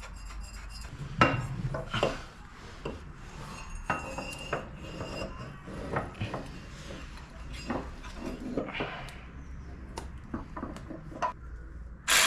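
Metal parts and hand tools clinking, knocking and scraping as an exhaust is fitted onto a mini bike, with some brief metallic ringing among irregular clicks.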